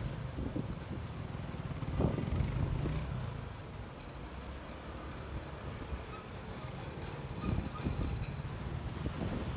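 Honda ADV 150 scooter running on the move, with wind rumbling over the microphone; the rumble swells about two seconds in and again near the end.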